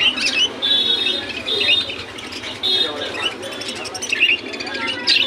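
Many caged small pet birds chirping and twittering together, with short buzzy trills repeating about once a second for the first three seconds.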